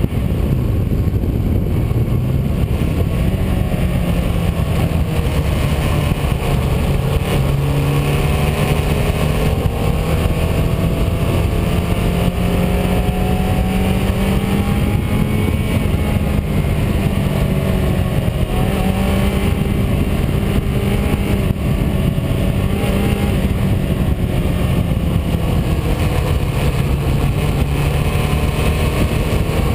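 Car engine running with steady road and wind noise, its pitch rising and falling every few seconds as it speeds up and slows through the bends.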